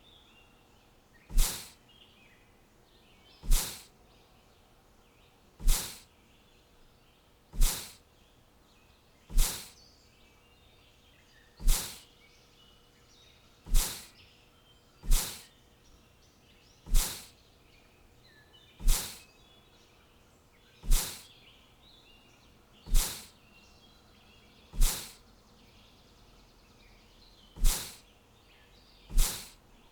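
A sharp knock repeating about every two seconds, each fading quickly, over faint bird chirping.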